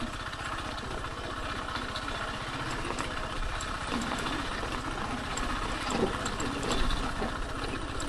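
Kymco KTR 150 motorcycle's single-cylinder engine running steadily at low revs, a fast even low pulsing, as the bike rolls slowly.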